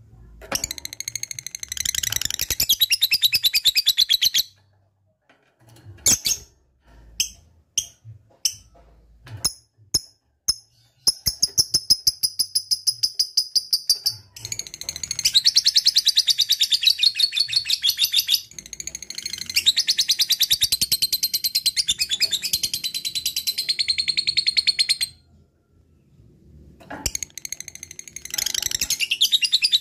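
Lovebird in the long "ngekek" chatter: long runs of rapid, evenly repeated high-pitched chirps in several bouts, with a few short separate clicks and chirps between the first two bouts and a brief pause near the end.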